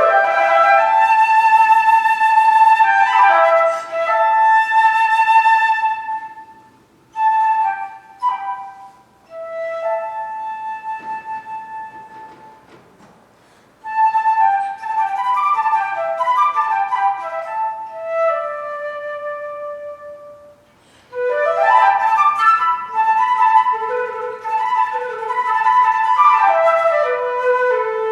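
Solo flute playing quick runs that sweep up into held notes, in three phrases with short pauses between them; in the middle one note fades away before the next phrase begins.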